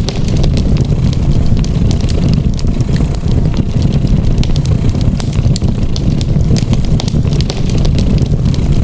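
A cat purring, a steady low rumble with a fast fine pulse, with a wood fire crackling over it in scattered sharp pops.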